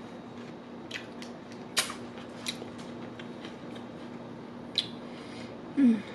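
Close-miked chewing of a sandwich: a few sharp wet mouth clicks and smacks over a steady low hum. Near the end a brief, louder low sound falls in pitch.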